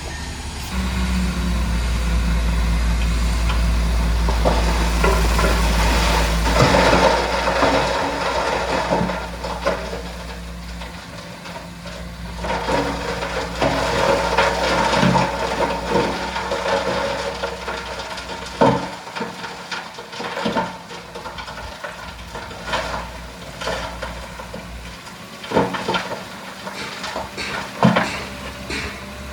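A heavy diesel engine runs low and steady for the first several seconds. Then loose stone clatters and scrapes, with scattered sharp knocks, as the load of rock shifts and tumbles.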